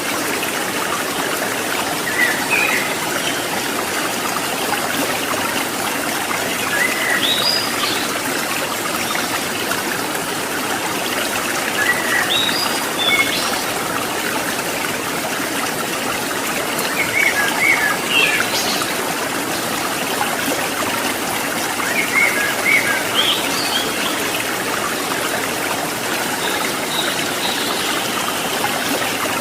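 Steady rush of running water from a forest mountain stream, with a bird calling in short chirping phrases about every five seconds.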